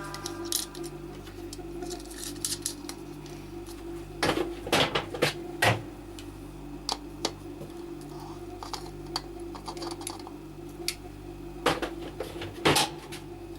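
Stainless steel pot lid clinking and clattering as it is handled: scattered light metal knocks, with louder clusters about four seconds in and again near the end, over a steady low hum.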